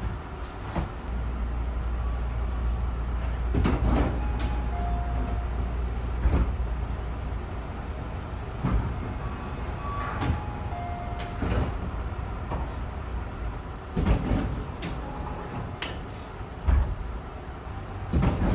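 Inside a Tobu 50050 series electric commuter train car running between stations, a low rumble with occasional clunks, then the sliding passenger doors opening with a thud near the end.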